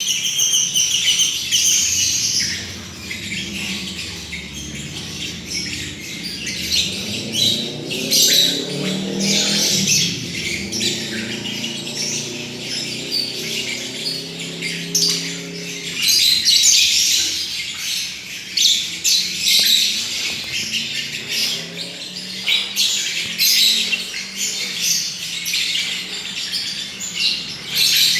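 Lovebirds chattering and squawking in rapid, high-pitched calls. Partway through, a lower droning tone rises and holds for several seconds under the bird calls.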